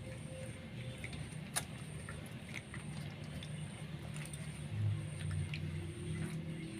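Puppies suckling: scattered soft wet clicks and smacks, with a low steady hum underneath.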